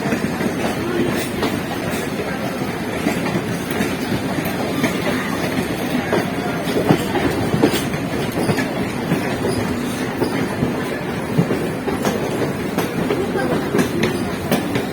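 Electric multiple-unit local train running at speed, its wheels clattering over rail joints in a steady rumble with a continual scatter of sharp clicks.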